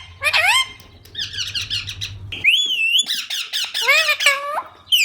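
Green parrots calling: rising squawks and a fast chatter of short notes, a wavy whistled call about halfway through, then more harsh calls with drawn-out tails.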